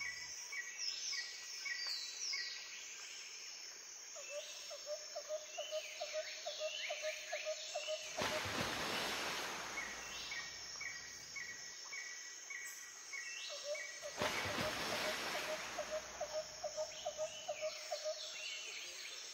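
Birds chirping, with a rapid pulsing call repeated in runs and two hissing swells about eight and fourteen seconds in.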